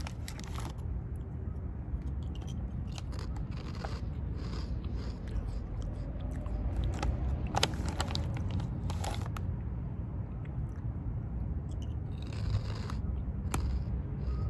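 Close-up crunching and chewing of baked shrimp chips, in scattered crackly bursts over a steady low hum.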